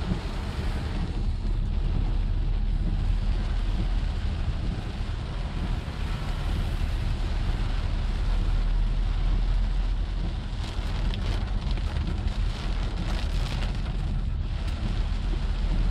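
Heavy rain beating on a car's roof and windshield, heard from inside the cabin as a steady hiss over a low rumble, growing harsher for a few seconds past the middle.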